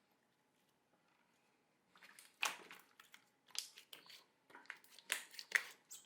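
Slime being squeezed and pressed by hand, making a run of crackling, squelching pops that starts about two seconds in and comes in several uneven bursts.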